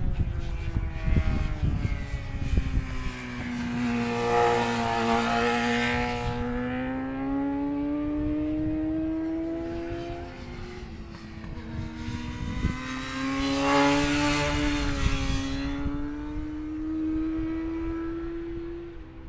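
Racing motorcycle engines passing on the circuit, their pitch climbing and dropping with the gear changes, loudest about four to six seconds in and again around fourteen seconds. Wind buffets the microphone at the start.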